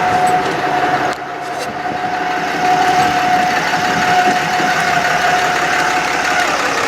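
Altec bucket truck running with its PTO engaged: the engine runs steadily under a high, even whine from the boom's hydraulic system. Near the end the whine slides down to a lower pitch.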